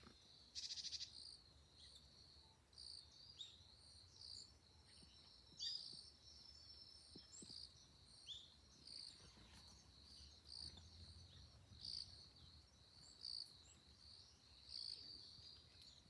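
Faint high chirping of wild songbirds, short calls repeating one after another, with a buzzy trill about half a second in and a few notes falling in pitch near the middle.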